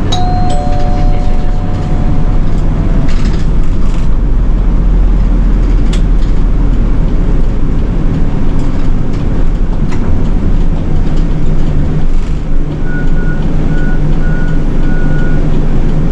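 City bus engine running steadily, heard from inside the bus. A two-note electronic chime sounds at the start, and four short, evenly spaced high beeps come near the end.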